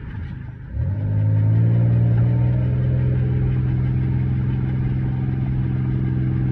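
2001 Chevrolet Impala's V6 engine running while driving: its pitch rises just under a second in, then holds steady at a higher speed.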